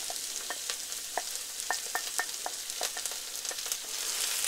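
Diced onion and garlic sizzling in hot peanut oil in a wok, with a steady hiss and many short ticks and scrapes as a wooden spatula stirs them against the pan. The sizzle grows a little louder near the end.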